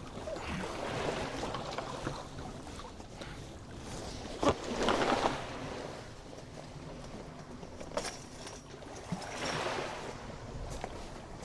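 Surf washing on a beach in swells a few seconds apart, with wind on the microphone and a few light knocks.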